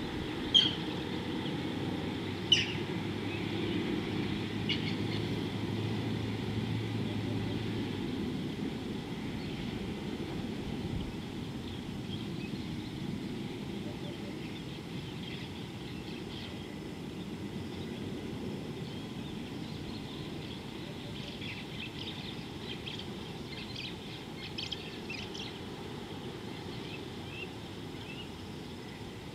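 Wild birds calling outdoors: two sharp, high chirps near the start and a scattered run of chirps later on, over a steady low background rumble.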